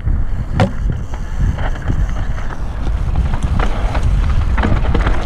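Wind buffeting the microphone of a camera on a moving mountain bike, with tyres on dirt and rocks and short knocks and rattles from the bike.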